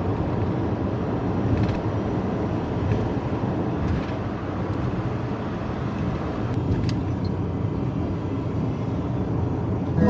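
Steady rumble of a vehicle on the road, road and engine noise with a few faint clicks.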